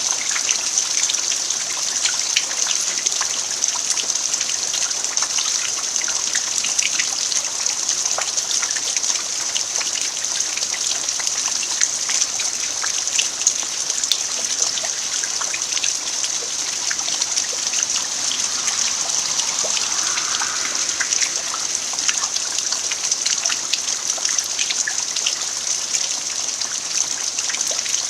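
Steady rain falling on a dirt yard: a dense, even hiss dotted with many small drop ticks.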